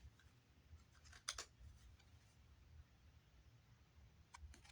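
Near silence with faint handling of oracle cards: a couple of soft card rustles and clicks about a second in, and a few more near the end.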